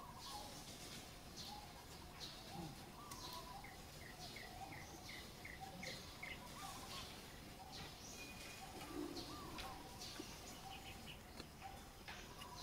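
Faint outdoor birdsong: scattered short chirps and calls, with a quick even run of about seven small chirps roughly two seconds in.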